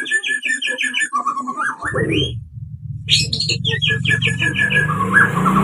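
White-rumped shama (murai batu) song: fast runs of repeated chattering notes, about eight a second, in two bursts with a short break. It is a recording used as a lure to get other shamas singing. A low steady hum joins about two seconds in.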